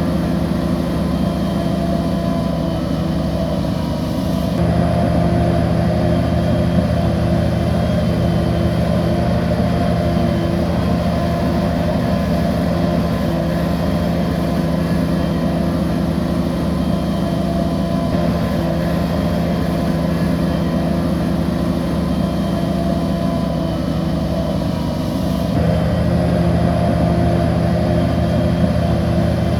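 Heavy diesel bulldozer engine running steadily under load, growing louder about four and a half seconds in and again near the end.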